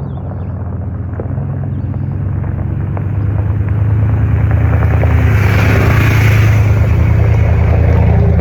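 Motor vehicle engine running steadily and growing louder, with a rush of road or wind noise swelling near the end.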